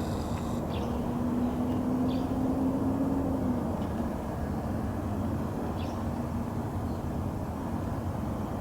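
Steady low outdoor rumble with a faint steady hum, louder for the first few seconds, and two or three short, faint high chirps.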